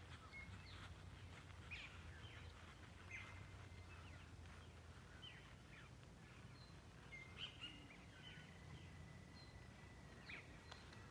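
Faint outdoor birdsong: scattered short chirps and calls, with one long, steady, high note held for about three seconds past the middle, over a low steady background rumble.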